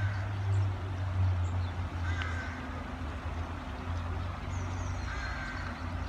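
Outdoor birds calling over a steady low rumble. One bird gives a short call about every three seconds, and small birds chirp faintly high up.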